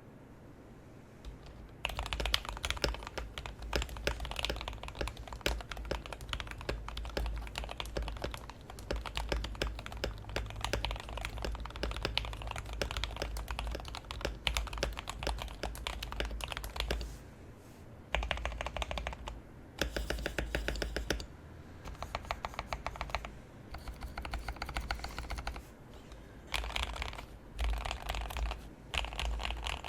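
Typing on a CIY Tester68 mechanical keyboard with lubed JWick Ultimate Black linear switches, GMK-style keycaps and a foam-dampened case. Continuous typing starts about two seconds in, then gives way to several short bursts of fast, evenly spaced keystrokes.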